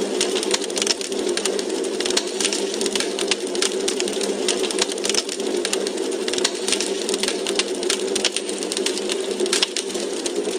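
Wood fire crackling in a fireplace: dense, irregular pops and snaps over a steady hiss.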